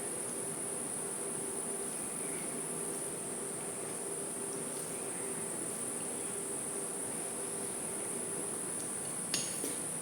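Crickets chirping, a steady high-pitched background, with a few faint clicks and a sharper click near the end.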